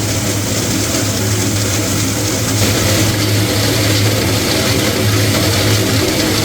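Workshop machinery running steadily: a constant low hum with an even hiss over it.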